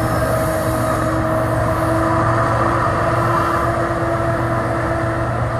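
Approaching CSX train's diesel locomotive, a steady drone with a few held tones running through it.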